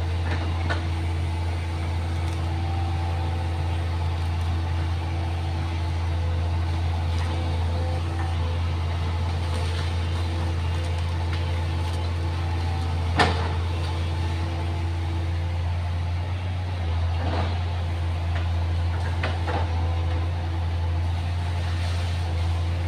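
Excavator's diesel engine running at a steady speed, with one sharp knock about thirteen seconds in and a few fainter clicks later.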